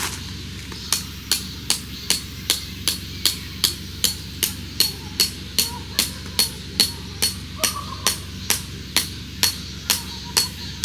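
A hammer striking metal in a steady run of blows, about two and a half a second, each with a short metallic ring; the blows start about a second in and stop near the end.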